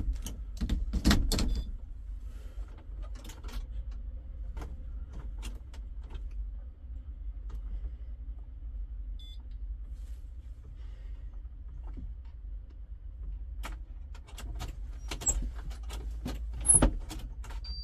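Scattered clicks and knocks of the ignition key being turned again and again in a John Deere 6810 tractor's cab, with no starter cranking: the tractor's intermittent starter fault. A short electronic beep sounds about halfway through.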